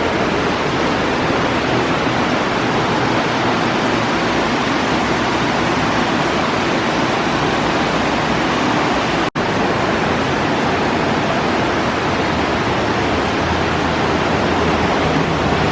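Steady, loud rushing of a waterfall, an even roar of falling water that breaks off for an instant about nine seconds in. A low hum joins it near the end.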